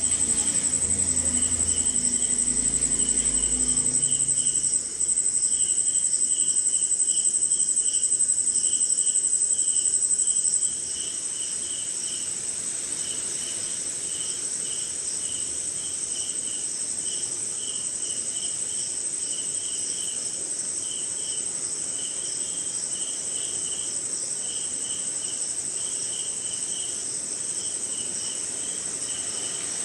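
Night chorus of crickets and other insects: a loud, steady high-pitched trill that drops to a quieter level about eleven seconds in, over a lower chirping repeated in quick pulses. A faint low rumble sits under it in the first few seconds.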